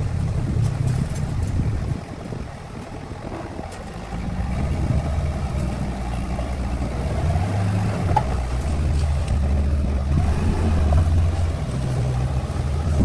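An engine running with a low rumble that shifts in pitch and level, dropping back about two seconds in and picking up again about four seconds in.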